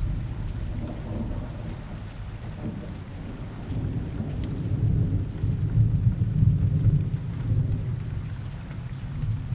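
Rain ambience: steady rain over a deep low rumble that swells about halfway through and then eases off.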